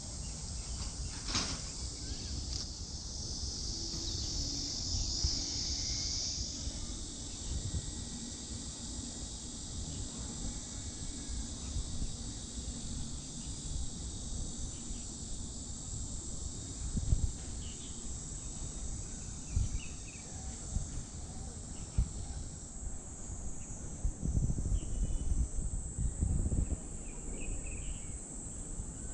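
A steady, high-pitched chorus of insects in summer trees. A louder insect joins about four seconds in for a couple of seconds, and another layer comes in about 23 seconds in, over low rumbling and a few soft knocks.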